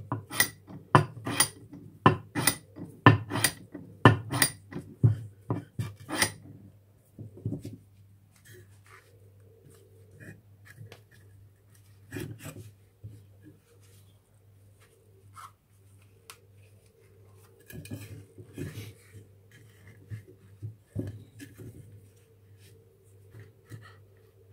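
A run of sharp clicks and taps, about two a second for the first six seconds, then scattered light clicks and rubbing from handling lead and a support piece at a workbench, over a steady low hum.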